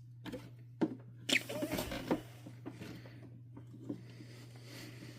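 Hands working the plastic body of a canister vacuum cleaner apart: a sharp click a little under a second in, then a burst of scrapes and knocks, and a faint tick near the end, over a steady low hum.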